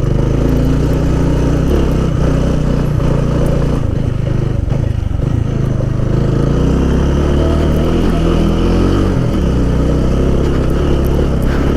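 Motorcycle engine running while riding a rough off-road track. The engine note drops and climbs again a couple of times, around four and nine seconds in.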